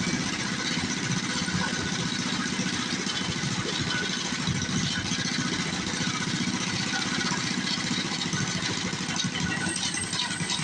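Mini bike's small single-cylinder engine idling steadily with a fast, even beat.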